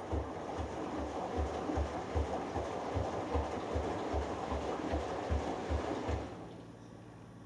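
Hoover Dynamic Next front-loading washing machine tumbling a delicates wash: the drum turns and the water and laundry slosh, with a regular low thump about two and a half times a second. The tumbling stops about six seconds in, leaving a quieter hum.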